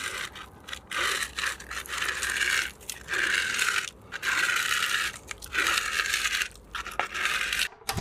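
A series of about five crunching, scraping strokes, each lasting around a second, with short pauses between.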